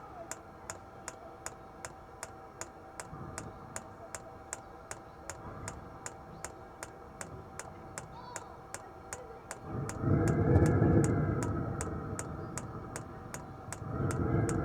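Diesel heater fuel dosing pump ticking evenly, about three clicks a second, while priming fuel through the line. About ten seconds in a louder rushing hum joins it, fades, and comes back near the end.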